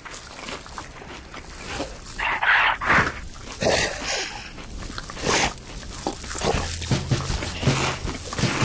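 Cartoon sound effects: a run of short animal-like cries and yelps with scattered knocks between them, the two loudest close together about two and a half seconds in. A low sustained music note comes in near the end.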